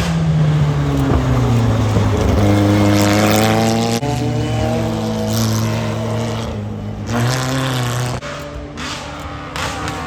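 Car engine running loud, its note falling at the start and then holding steady, with abrupt changes a few times as the sound cuts between shots.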